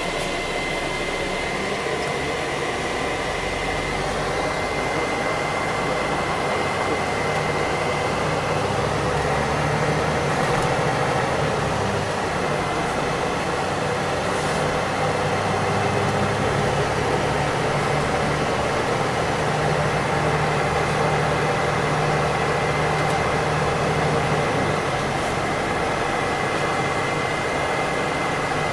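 Scania OmniLink CL94UB city bus under way, heard from inside the cabin: steady diesel engine and running noise, with a thin high whine over it. The engine note swells about a third of the way in and again through the middle as the bus pulls away, easing off near the end.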